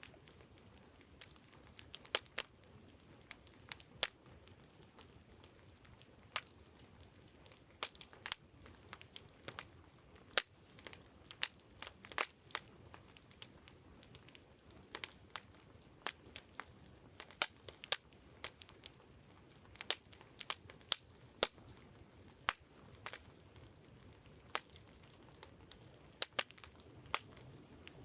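Wood campfire crackling: irregular sharp pops and snaps, sometimes several close together, over a faint steady hiss.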